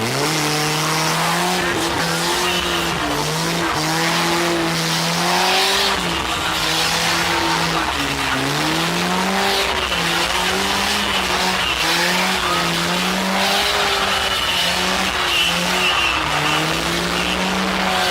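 Car doing a burnout: the engine held at high revs, its pitch wavering up and down, with the tyres screeching.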